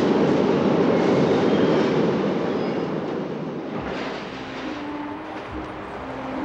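Subway train running, a loud steady rumble and rattle that drops away about four seconds in.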